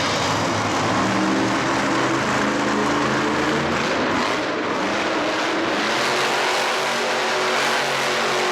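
Loud racing-vehicle engine running at a steady pitch. The note shifts about halfway through and settles at a new steady pitch, over a wash of arena noise.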